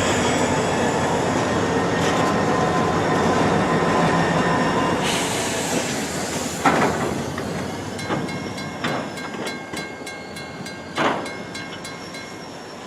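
Freight train rolling past: a steady rumble of the cars with thin, high wheel-squeal tones. From about halfway it grows quieter, with a few sharp clanks and lighter clicks as the wheels cross rail joints.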